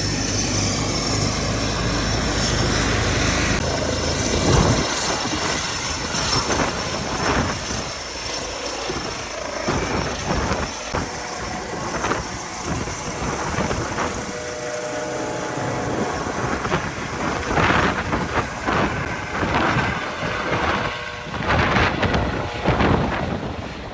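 Helicopter turbine and rotor running with a steady low hum and high whine. After about four and a half seconds it gives way to irregular gusty buffeting, wind and rotor wash on the microphone.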